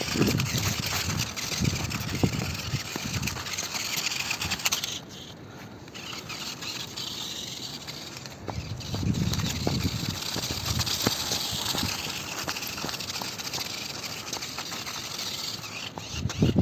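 Radio-controlled monster truck driving over rough off-road ground: tyres scraping and crunching over dirt and stones, with the chassis rattling. It goes quieter for a moment about five seconds in.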